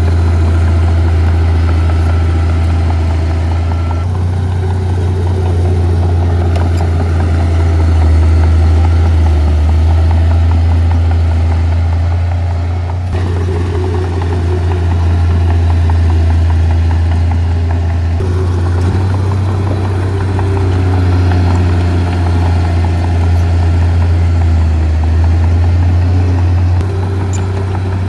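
Heavy earth-moving machinery's diesel engine running steadily with a strong low drone, its sound shifting abruptly a few times.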